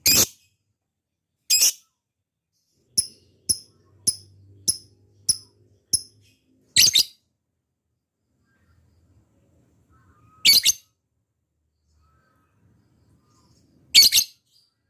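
Lovebird calling: short, loud, high shrieks a few seconds apart, with a run of six quick sharp chirps in the middle.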